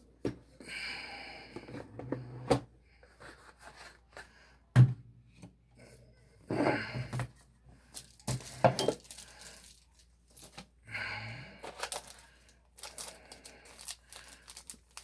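A cardboard collector's box, its cards and packaging being handled: on-and-off rustling and scraping with a few sharp knocks, the loudest about five seconds in.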